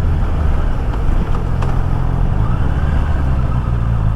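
Honda CB650R's inline-four engine running steadily under way, a low even drone, heard from a microphone inside the rider's helmet along with wind and road noise.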